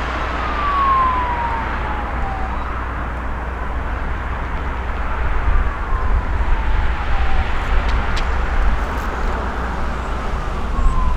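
An emergency-vehicle siren wailing, its pitch sliding slowly down in three long sweeps about four seconds apart, over a steady low rumble of traffic or wind.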